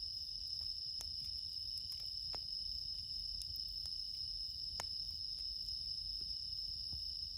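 A steady, high-pitched chorus of late-summer crickets, among them bell crickets (suzumushi), with a campfire giving a faint snap now and then, about three times.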